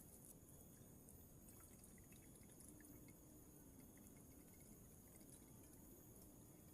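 Very faint rain in a forest: scattered light drips over a steady high hiss.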